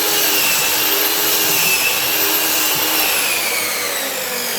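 Power saw motor whining at full speed while cutting a pressure-treated board to length. Its pitch falls from about three seconds in as the saw winds down after the cut.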